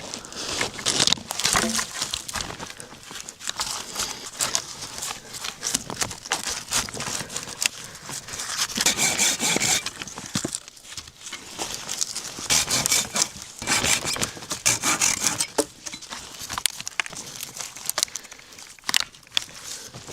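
Hand saw cutting through wood in runs of quick back-and-forth strokes, pausing and starting again several times.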